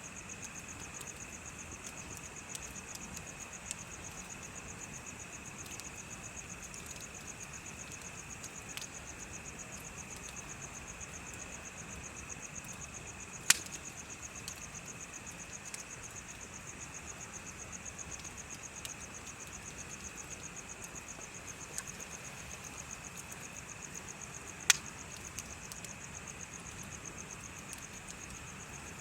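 Insects chirping steadily in a fast, even trill, over a bonfire with a few sharp pops from the burning wood, two of them loud, one about halfway through and one later on.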